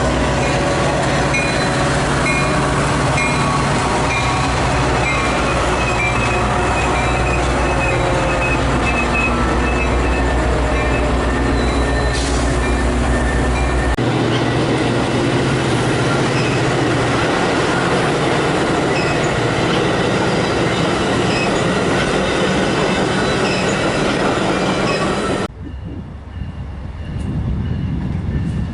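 Diesel-hauled train rolling past on the rails, with a steady low engine hum, wheel noise and some faint wheel squeal. The low hum stops about halfway through, and the whole sound drops abruptly a few seconds before the end.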